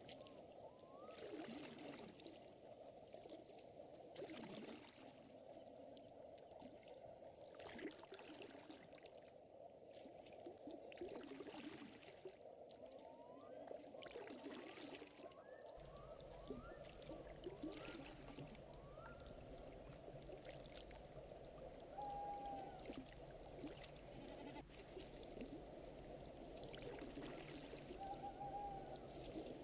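Faint lakeside nature ambience: gentle lapping water under a dense chorus of small chirping calls. Two short whistled notes sound near the end, and a low hum joins about halfway through.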